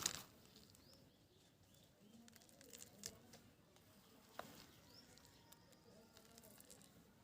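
Near silence: faint background with a few soft chirps and two light clicks, one about three seconds in and one about four and a half seconds in.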